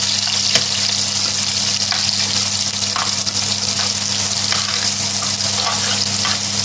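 Ginger, garlic and whole spices sizzling steadily in hot vegetable oil in an aluminium pan, with light scrapes and ticks from a large cooking spoon stirring them. This is the first frying of the aromatics for a curry, before they start to brown.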